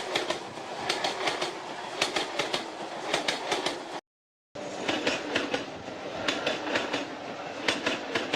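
Train passing, its wheels clacking over the rail joints in repeated groups of clicks about once a second over a steady rumble. The sound cuts out for about half a second midway, then carries on.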